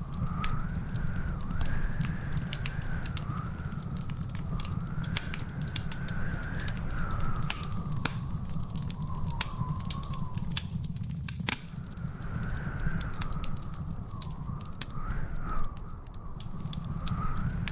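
Wood fire crackling with frequent sharp pops and snaps over a steady low rumble. A faint wavering whistle runs alongside, dropping out for a couple of seconds midway.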